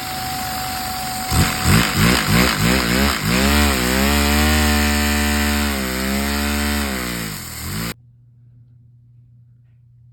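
Lego vacuum engine, its pistons driven by suction from a vacuum cleaner, spinning up: its strokes come faster and faster until they merge into a steady buzzing tone over the vacuum's hiss. Then it all cuts off suddenly, near the end.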